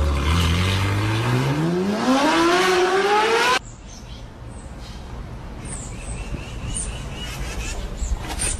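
A motor revving up, its pitch rising steadily for about three and a half seconds before cutting off abruptly; faint high chirps follow.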